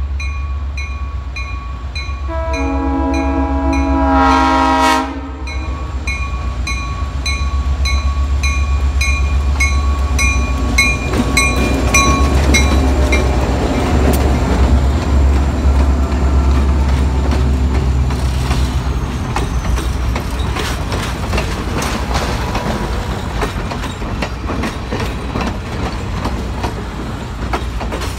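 Diesel-hauled passenger train approaching and passing close by. A few seconds in comes one horn blast of about two and a half seconds, over the locomotives' engine rumble and a bell ringing about twice a second. From about halfway, the wheels click over the rail joints as the locomotives and passenger coaches roll past.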